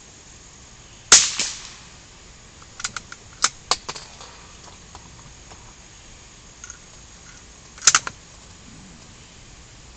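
.22 rifle firing twice, two sharp shots about seven seconds apart, with a quick run of small metallic clicks and clacks between them.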